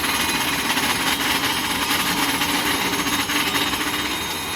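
Goods train wagons passing at speed, their wheels making a loud, steady, rapid clatter on the rails that begins to ease near the end.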